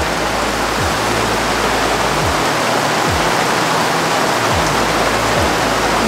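Heavy thunderstorm rain pouring down in a steady, loud, dense hiss.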